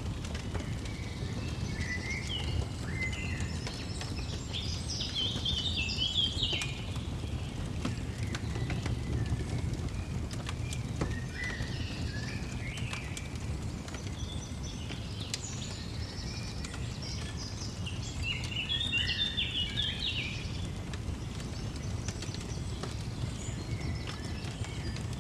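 Songbirds twittering in clusters of quick chirps, in two main spells with a few calls between, over a steady crackling fireplace with faint scattered pops.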